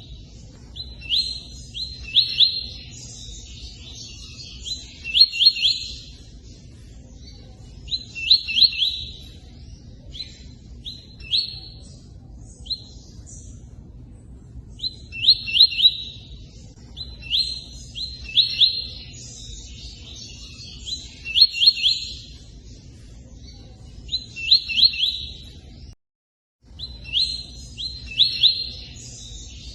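Tui-tui songbird singing: short bursts of quick, high, bright notes mixed with scratchier twitters, repeated every couple of seconds, with a longer pause in the middle. The sound cuts out completely for a moment near the end. A steady low rush of running water sits underneath.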